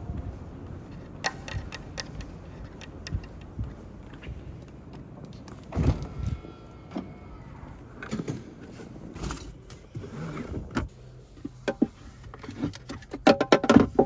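Irregular clicks, taps and rustles of hand-handling plastic car accessories and their packaging, thickening into a quick run of clicks near the end. A brief faint tone sounds about six seconds in.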